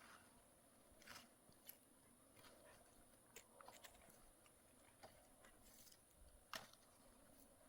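Near silence with a few faint, scattered clicks and ticks, the sharpest one about six and a half seconds in.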